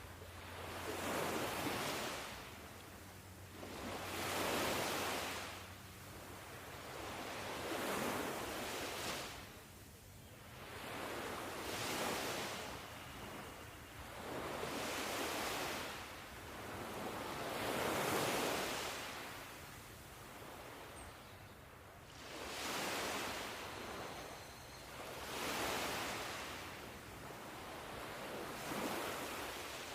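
Ocean waves washing onto a shore, each surge of surf swelling and fading away, about one every three to four seconds.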